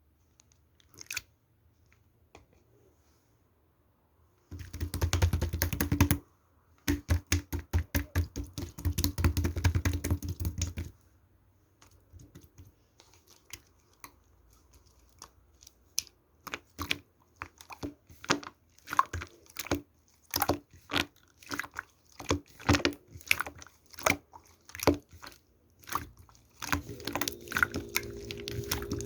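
Slime being squeezed and stretched by hand: dense runs of wet clicking and popping for several seconds, then separate squishy clicks about one or two a second. A steady low hum comes in near the end.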